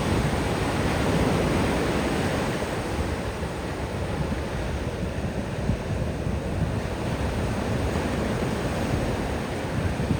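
Ocean surf washing onto a beach: a wave swells up in the first couple of seconds, then eases into a steady wash of foam.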